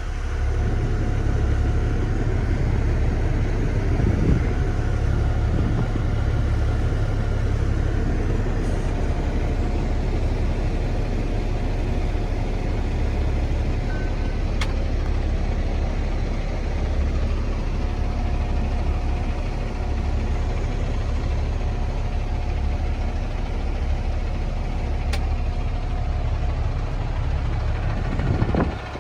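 Engine of a natural-gas (CNG) 2014 Kenworth T800 semi truck running steadily, a continuous deep rumble with no revving.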